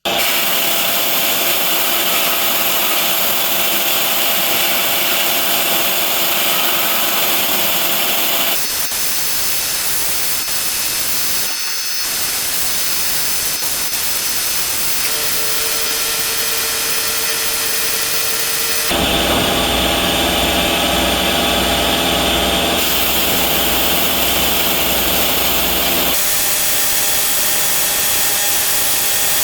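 A power tool running steadily with a motor hum and rough grinding noise, in several spliced stretches whose sound changes abruptly a few times.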